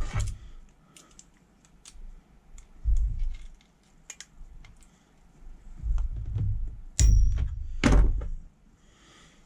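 Small clicks and handling knocks of a thin steel planer blade being set into the cutter drum by hand, with a sharp metallic click and brief ring about seven seconds in and another knock a second later.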